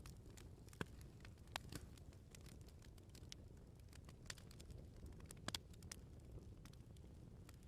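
Wood bonfire crackling: irregular sharp pops and snaps of burning firewood over a quiet, steady low rumble of the flames.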